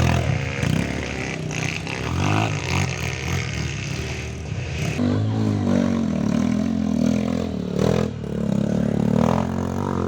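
Off-road trail motorcycle engines revving up and down repeatedly as the bikes labour through deep mud.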